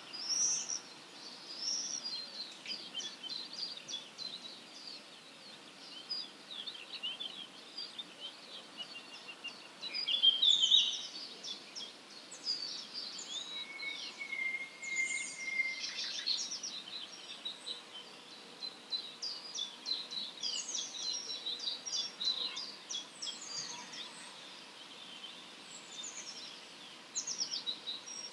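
Early-morning chorus of several wild songbirds: many short chirps, trills and whistles overlapping, with one louder call about ten seconds in, over a faint background hiss.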